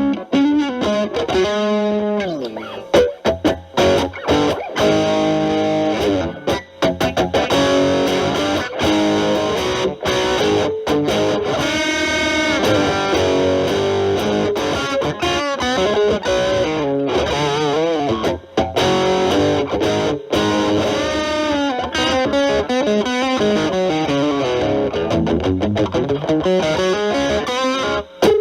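Stratocaster with single-coil pickups played through a Boss DS-1 distortion pedal, boosted by an Ibanez TS9 Tube Screamer, into a Marshall Valvestate amp: a distorted lead tone. The playing is lead phrases full of string bends and wide vibrato, with brief pauses between phrases.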